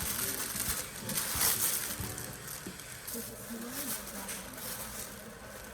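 Plastic packaging rustling and crinkling as a package is opened by hand, in a few sharp bursts in the first two seconds and quieter handling after.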